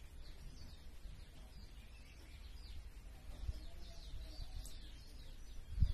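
Small birds chirping, with many short high chirps that grow busier in the second half, over a low rumble. A single dull thump comes near the end.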